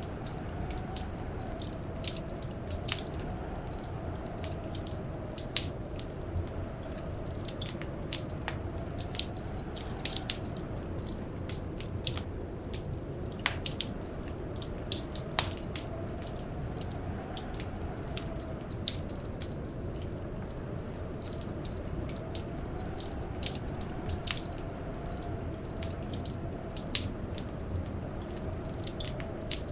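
Wood fire crackling: irregular sharp pops and snaps, a few louder than the rest, over a steady low rush.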